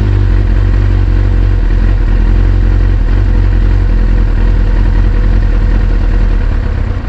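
A 2001 Kawasaki ZX-6R's carbureted inline-four idling steadily on choke; about a second and a half in, as the choke is pushed back up on the warm engine, the idle note changes and turns rougher, dipping slightly near the end as the engine starts to falter.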